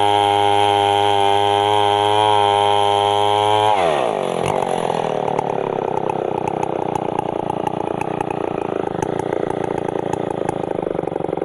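Stihl MS 070 chainsaw's large two-stroke engine held at high revs. About four seconds in the throttle is released and the engine falls away to a rough, uneven idle.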